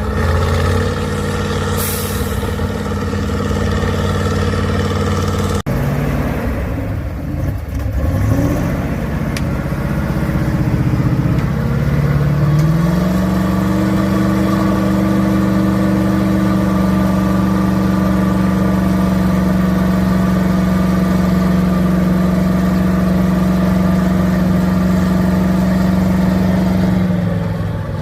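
Engine of a six-wheel-drive trial truck working off-road, with a sudden break about six seconds in; the revs then climb over several seconds and are held high and steady until near the end.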